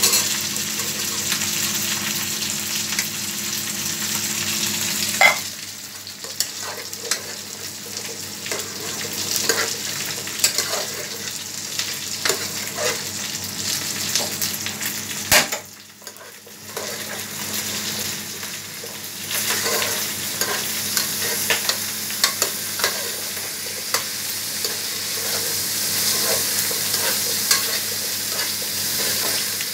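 Diced carrots, beans and onions sizzling in ghee in a steel pot, stirred with a steel spoon that scrapes and clicks against the pot. The sizzle is loudest in the first five seconds, drops off after a sharp clink, dips briefly just past the middle and picks up again.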